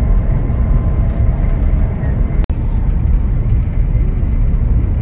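Steady low rumble of a high-speed train running at speed, heard from inside the passenger cabin, with a split-second break in the sound about halfway through.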